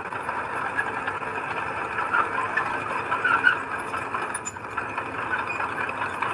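Heavy earthmoving machinery at work: a steady engine running under load, with scattered short squeaks and metallic clatter over it.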